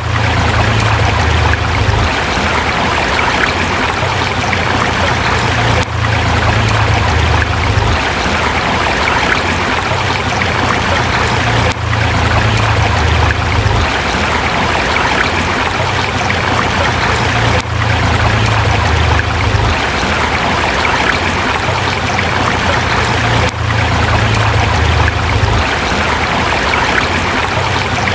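River water flowing over rocks: a steady rush, with a low rumble underneath and a brief dip about every six seconds.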